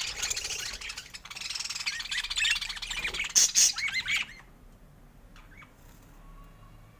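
Budgerigars chattering and warbling in a dense stream of fast chirps, with a few louder squawks just before it breaks off about four seconds in; after that, only faint scattered chirps.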